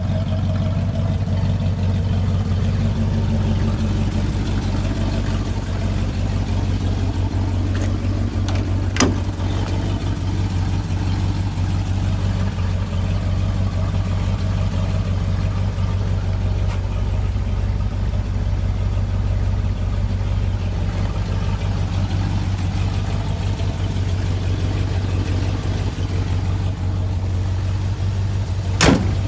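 The 1969 Chevrolet C30 one-ton truck's engine running steadily with a deep, even rumble. Two sharp clicks sound over it, one about nine seconds in and one just before the end.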